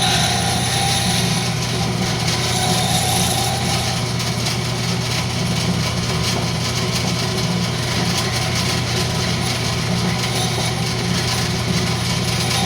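Wood lathe running steadily with a constant low motor hum, while a turning tool cuts the spinning rosewood with a hiss that swells a few times, near the start and about three seconds in.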